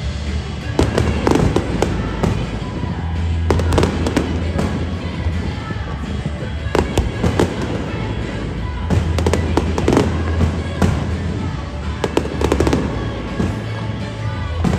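Aerial fireworks bursting in rapid volleys, many sharp bangs following one another with no pause. Music plays underneath.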